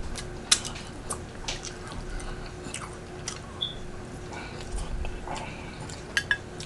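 A person chewing a mouthful of cheesy spaghetti, with irregular wet mouth clicks and smacks.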